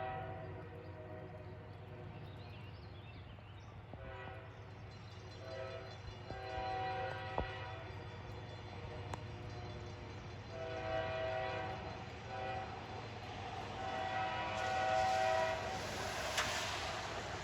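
Freight locomotive air horn sounding a chord in repeated blasts of about a second each, over the steady low rumble of the diesel locomotive. A rising rush of noise grows near the end as the train comes closer.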